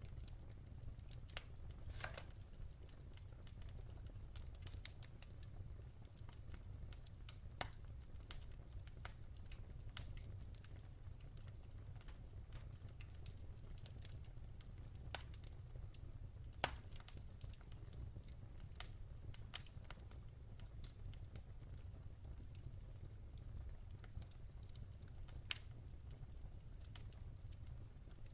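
Campfire crackling: irregular sharp pops and snaps of burning wood, a few louder ones spaced several seconds apart, over a steady low rumble.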